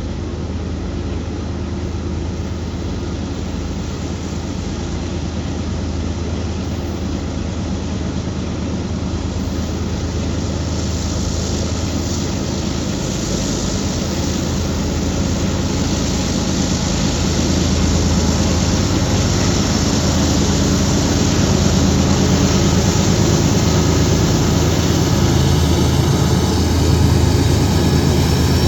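Diesel-electric freight locomotives working steadily under load up the grade, a deep, steady engine rumble that grows louder as the train approaches.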